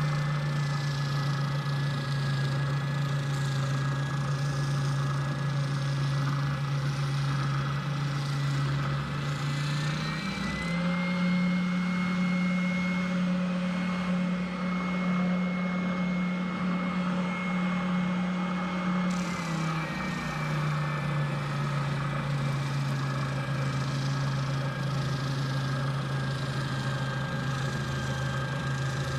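An electric power tool's motor running steadily. It rises in pitch about ten seconds in, holds there, and drops back to its earlier pitch about nineteen seconds in.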